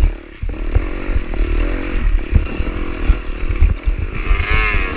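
Off-road dirt bike engine revving up and down in short bursts while it is ridden over boulders, with a higher, harder rev near the end and low thumps throughout.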